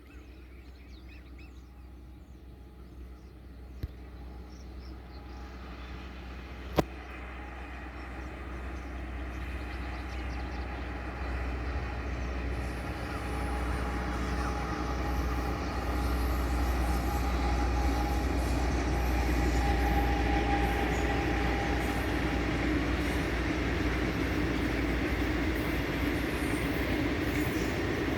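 Diesel-hauled cement freight train approaching along the track, its rumble growing steadily louder and then running on past at a steady level. A single sharp click comes about seven seconds in.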